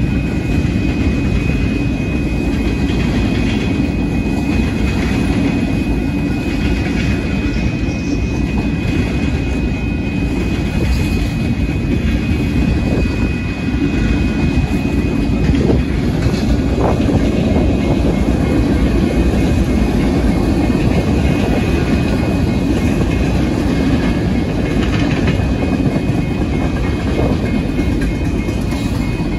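Freight train cars rolling past on the rails: a loud, steady rumble with a thin, high, steady ringing tone over it. Near the end a grade-crossing warning bell rings in even strokes.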